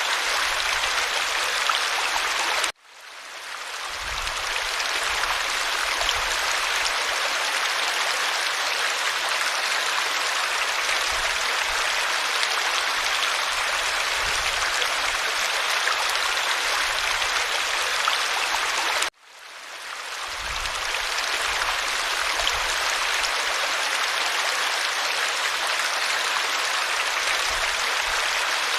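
A creek running and babbling steadily, an even rush of water. Twice the sound cuts out abruptly and fades back in over about a second, like the seams of a looped recording.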